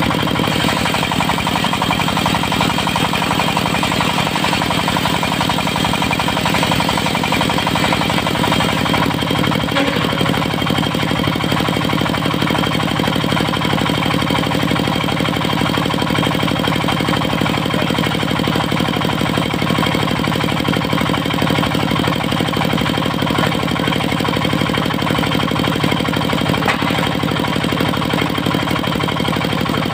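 Diesel engine of a portable circular-saw sawmill running steadily with a fast, even knock; its note shifts slightly about nine seconds in.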